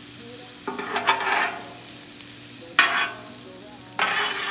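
Sliced onions and mushrooms frying in butter on a hot Blackstone flat-top griddle, a low steady sizzle. Three louder bursts of sizzling and stirring come as a metal spatula pushes the vegetables around: about a second in, near three seconds, and again near the end.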